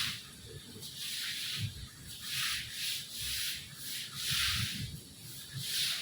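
Rain falling, heard as a hiss that swells and fades about once a second, with a faint irregular low rumble underneath.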